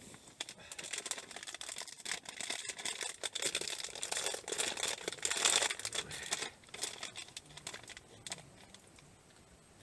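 Rustling and crinkling with many small clicks, busiest about five and a half seconds in, dying away by about seven seconds.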